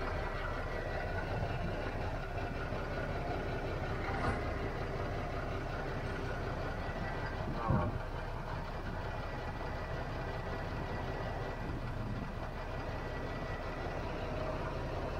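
Recovery truck's diesel engine idling steadily, with a faint steady high whine over it. A short, sharper sound stands out about halfway through.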